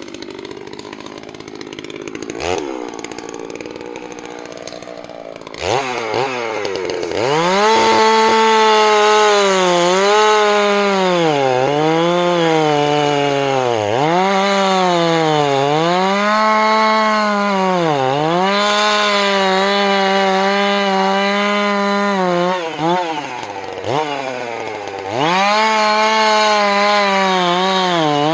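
Two-stroke chainsaw running at a low, uneven speed, then opened to full throttle about six seconds in and cutting into a red oak. Its high, steady pitch sags and recovers every couple of seconds as the chain bites into the wood. Near the end it drops back briefly, then returns to full throttle.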